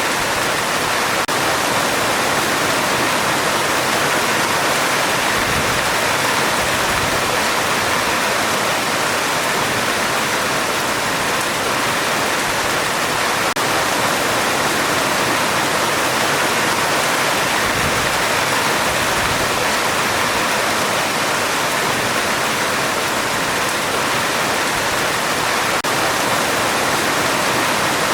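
Heavy rain drumming on a metal roof: a steady, dense hiss.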